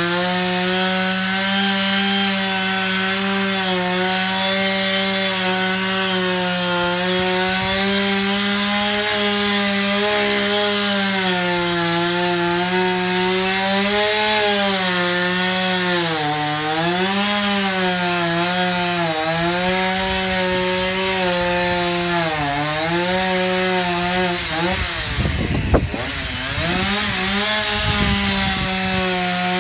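Chainsaw running at high revs while cutting into a tree trunk, its pitch sagging and recovering again and again as the chain bites into the wood. Near the end the revs drop for a moment with a sharp knock, then climb back to full speed.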